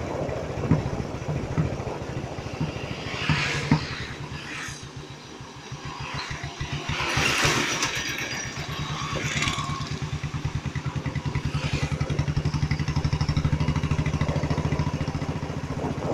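Royal Enfield single-cylinder motorcycle engine running under way, its exhaust a steady train of low pulses that grows louder in the second half. Brief rushes of noise come about three and about seven seconds in.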